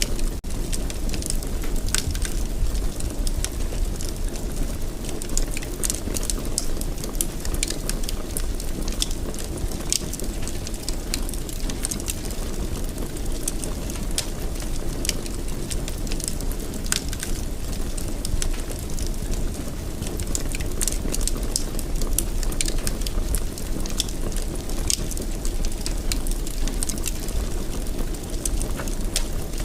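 Wood fire burning in a fireplace, with a steady low rumble of flames and frequent irregular crackles and sharp pops from the burning wood.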